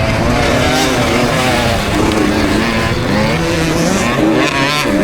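KTM SX65 two-stroke 65cc motocross engine revving up and down with the throttle as the bike is ridden, with wind rush on the helmet camera. Near the end the revs drop sharply and climb again.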